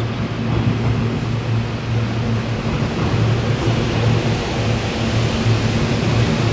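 SEPTA Regional Rail electric train running into an underground station along the platform: a steady rumble of wheels on track with a low electric hum.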